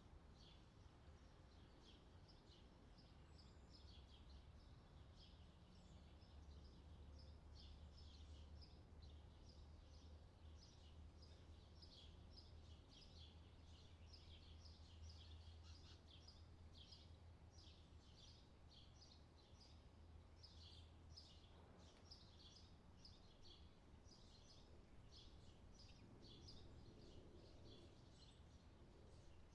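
Faint outdoor summer ambience recording: many small birds chirping continuously over a low steady rumble.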